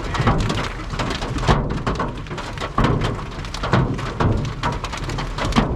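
Hail and heavy rain pelting down in a severe thunderstorm: a dense, irregular clatter of hits over a low rumble of wind.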